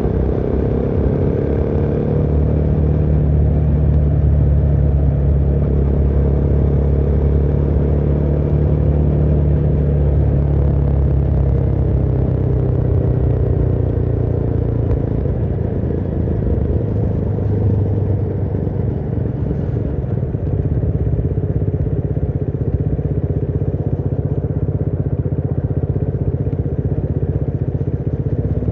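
Motorcycle engine running steadily under way, its pitch drifting gently up and down with the throttle.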